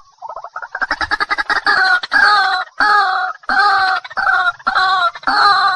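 Waterhen calling: a fast stuttering run of notes builds over the first second or so, then gives way to a string of loud, harsh calls repeated about twice a second.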